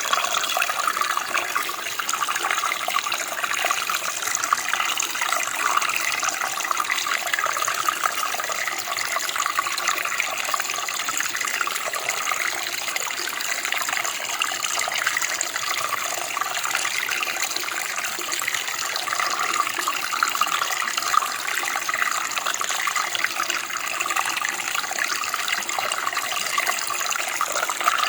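Running water of a stream or creek flowing steadily over rocks, a continuous even splashing and gurgling.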